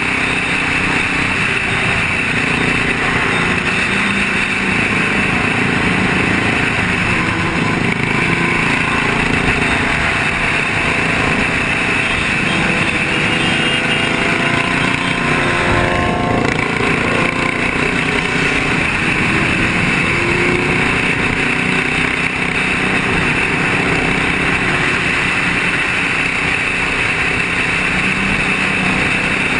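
Motorcycle engines running continuously in a group, with the pitch rising and falling briefly partway through as they rev.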